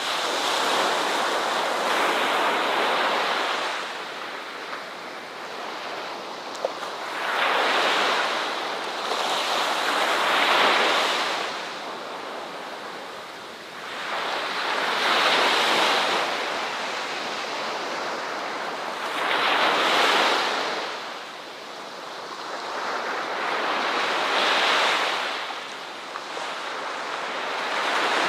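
Ocean surf: waves breaking and washing ashore. The sound swells and ebbs, with a fresh surge every four to five seconds.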